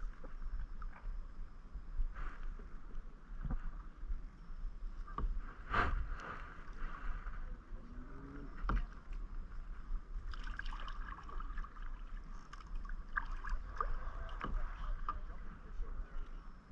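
Kayak paddling through calm water: paddle strokes splashing, with irregular sharp knocks of the paddle against the kayak.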